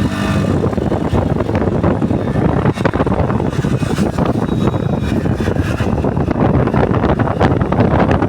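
Motorcycle running on the move, with wind buffeting the microphone and making a rough, steady rush.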